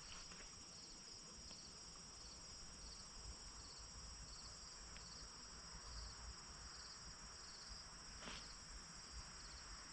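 A field chorus of crickets, a steady high-pitched pulsing trill, over a faint low rumble.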